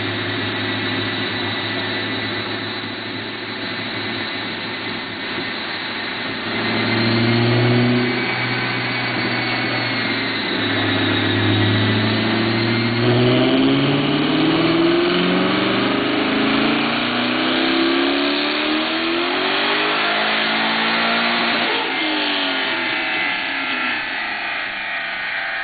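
Twin-turbocharged Ford Mustang Cobra V8 with a Hellion 61 mm twin-turbo kit running at about 15 psi of boost. It runs steadily, steps up in loudness about six seconds in, then revs climb steadily for several seconds before dropping off sharply near the end. A steady high whine sits over the engine throughout.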